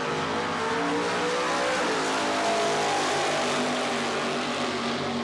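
Drag car accelerating flat out down the strip. The engine's pitch climbs, drops at a gear change about two seconds in, then climbs again and holds.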